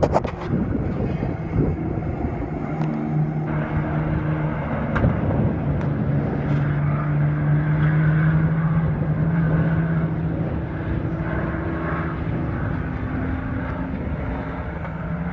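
Several mini truck race engines running at speed around the track, a steady drone whose pitch drifts slightly up and down, with a sharp crack right at the start.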